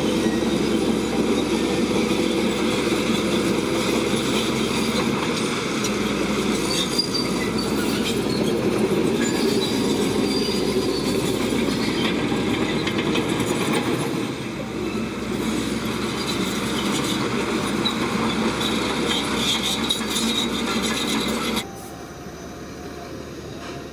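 Shantui crawler bulldozer working: its diesel engine running steadily under load with the grind of steel tracks, dropping abruptly to a much lower level near the end.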